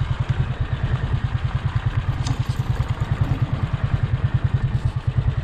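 Motorcycle engine running steadily at low speed, with an even low pulsing throughout.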